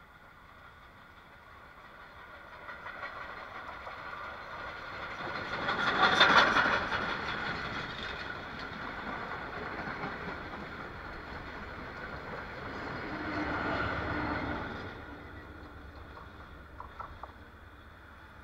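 Sri Lanka Railways' Viceroy Special steam train (B1d 340) passing on the track. The rumble builds to its loudest about six seconds in and carries on as the carriages roll by. A second swell comes around fourteen seconds as the diesel locomotive at the rear passes, then the sound fades as the train moves away.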